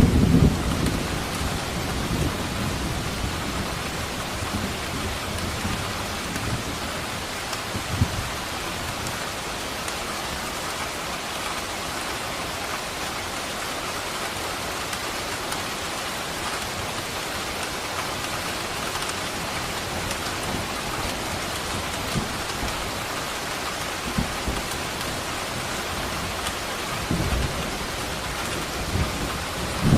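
Steady rain falling with thunder: a low rumble dies away over the first couple of seconds, a brief thump comes about eight seconds in, and thunder rumbles up again near the end.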